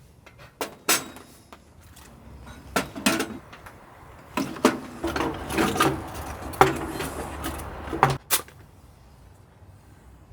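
Firewood and a small wood-burning stove being handled: an irregular run of wooden knocks and clatters as logs are set in and moved about, some with a brief ring, then quieter for the last couple of seconds.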